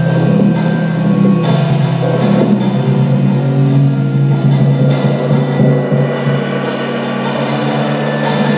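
Jazz organ trio playing live: held organ notes and chords over drum kit and cymbal strokes.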